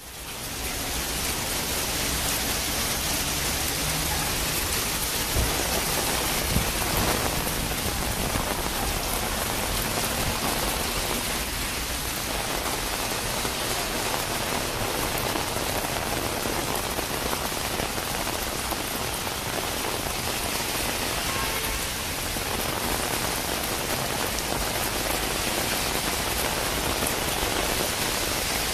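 Heavy rain pouring steadily onto a city street and pavement, a dense, even hiss that fades in over the first second.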